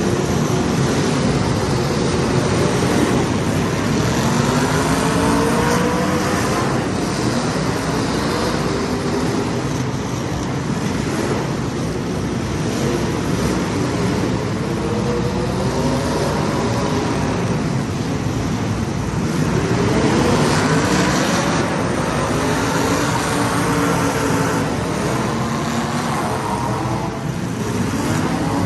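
Several racing engines running hard in a pack. Their pitches keep rising and falling as the cars accelerate, lift for the turns and pass by.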